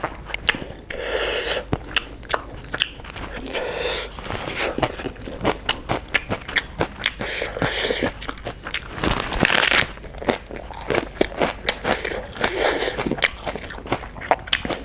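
Close-up chewing of chicken biryani, with many short, wet clicks from the mouth, and a loud crunchy bite into a raw green leaf about nine seconds in.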